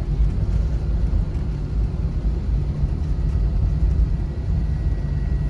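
Steady low rumble inside an airliner's passenger cabin, its jet engines running before takeoff, with a faint thin steady whine above it.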